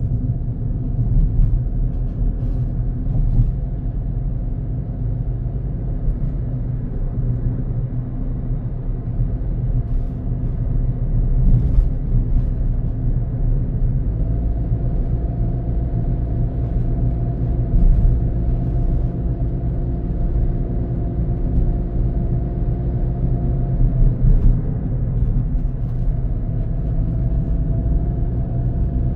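A car driving on a road: a steady low rumble of engine and tyres. About halfway in, an engine drone comes in and holds, then shifts a little in pitch near the end.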